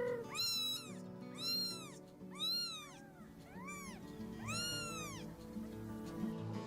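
Domestic cat meowing about six times, each meow rising then falling in pitch, the last one the longest, over background music.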